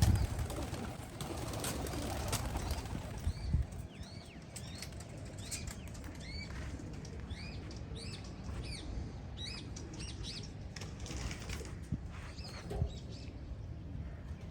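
Domestic pigeons flapping their wings as the flock is let out to fly, a dense flutter loudest in the first few seconds. After that come many short high chirps from small birds.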